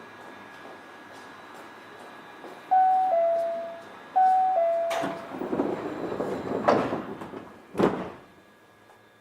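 Door-closing chime of an Osaka Monorail 1000-series train, a two-note falling tone sounded twice. The sliding passenger doors then close with a rush of noise and thumps, the last and sharpest about eight seconds in.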